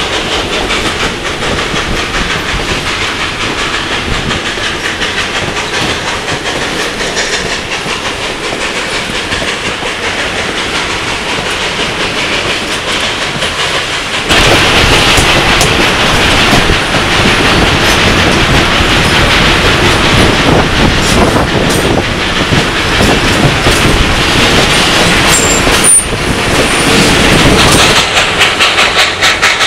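Passenger coaches of a steam-hauled excursion train rolling along the track, heard from an open coach window: wheels clicking over the rail joints under a steady rush of running noise. It gets louder about halfway through, and a quick, even beat comes in near the end.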